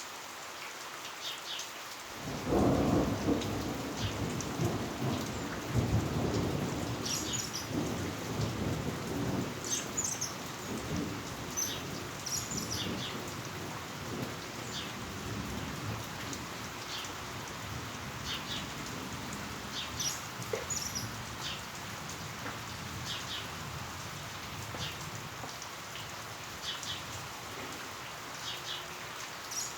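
Heavy rain falling steadily. About two seconds in a roll of thunder breaks out, rumbling loudest for the next few seconds, then slowly dying away.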